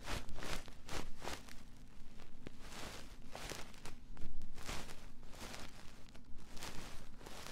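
ASMR ear-cleaning sounds: a tool scratching and rubbing close against a microphone in quick, uneven strokes, a few each second, with a louder scrape about four seconds in.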